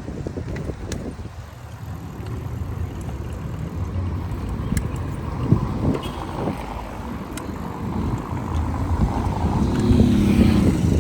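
City street traffic going by, with a steady low wind rumble on the microphone from riding a bike, and a few sharp clicks. Near the end a passing vehicle grows louder with a pitched engine or horn-like sound.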